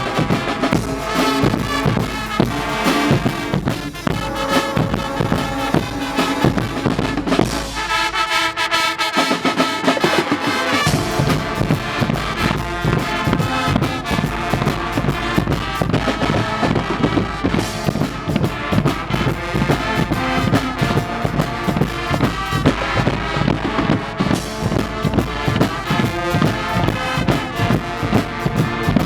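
Guggenmusik carnival band playing: a loud brass section of trumpets and trombones over drums, in a strong beat. The drums and low brass drop out for about two seconds around nine seconds in, then come back in.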